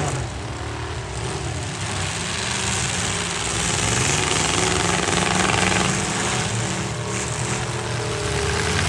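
Demolition derby trucks' engines running and revving, their pitch rising and falling.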